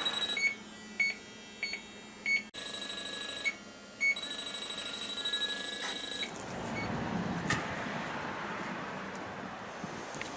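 Rapid electronic beeping in a high steady pitch, about ten pulses a second, in runs with a few short chirps between them. After about six seconds it stops and gives way to a steady rushing noise.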